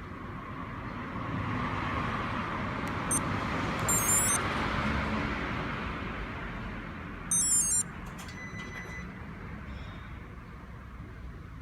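Two short, high warbling electronic chirps, about four seconds in and again about three seconds later, typical of a remote engine starter's answer-back remote, over a steady rush that swells and then fades.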